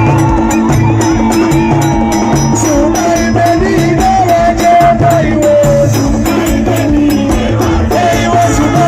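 Loud live band music: a singing voice gliding over a fast, steady beat with shaker-like percussion and a repeating bass line.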